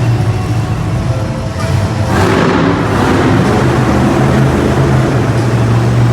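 Monster truck engine running hard on a wheelie run, with a low steady drone that gets louder and harsher about two seconds in. Arena music plays over it.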